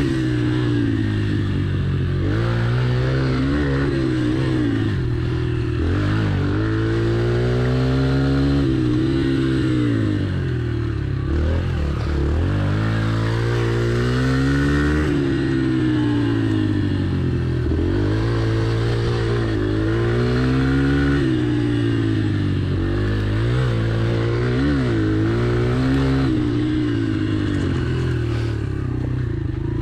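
Yamaha TT-R pit bike's four-stroke single-cylinder engine being ridden hard around tight turns, its pitch climbing and dropping every few seconds as the throttle is opened and rolled off.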